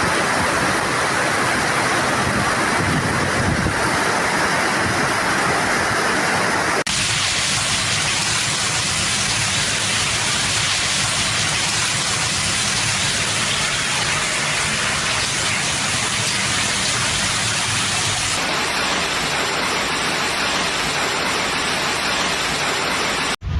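Heavy storm rain pouring down, a loud, steady hiss. Its sound changes abruptly about seven seconds in and again later on, then breaks off for a moment just before the end.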